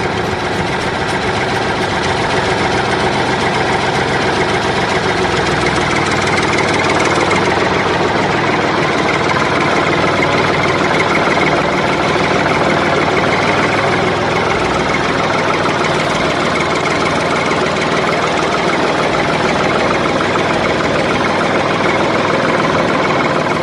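An engine idling steadily, one even continuous running note with no revving.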